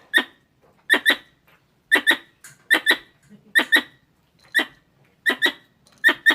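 A squirrel calling: short, sharp chirps, mostly in quick pairs, repeated about once a second.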